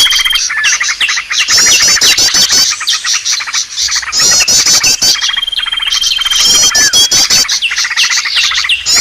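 Bird-lure recording: a loud, dense chorus of small birds chirping, trilling and whistling together, with fast high trills and a long held whistle. The same sequence seems to repeat roughly every four and a half seconds, as a looped lure track does.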